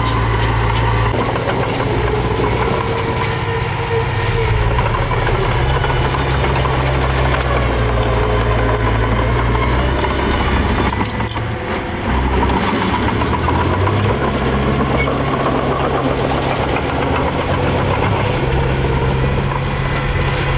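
Diesel engine of heavy earthmoving machinery running steadily, its low drone shifting in pitch now and then as the throttle changes, with a brief dip in level about halfway through.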